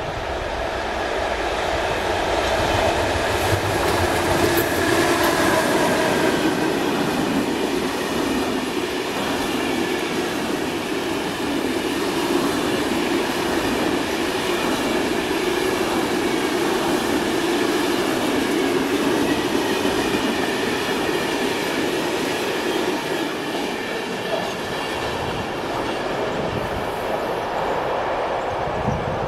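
Train running through the station: a steady rumble and rush of wheels on rail with a held whine over it, building over the first few seconds and then holding.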